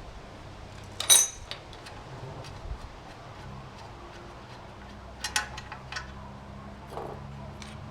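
Metal hand tools clinking and knocking on the metal parts of a chipper shredder during disassembly: a sharp clink about a second in, a cluster of lighter clicks around five to six seconds, and one more near seven seconds.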